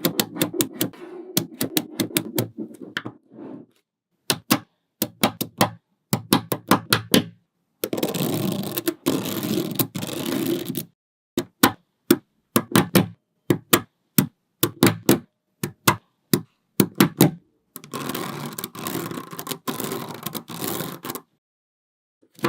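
Small magnet balls clicking sharply as they snap onto one another, one after another and in quick runs. There are two longer stretches of continuous rattle as a loose heap of balls is stirred, about a third of the way in and again near the end.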